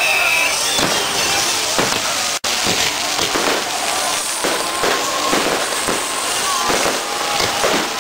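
Fireworks going off in a steady string of bangs and crackles. The sound cuts out for an instant about two and a half seconds in.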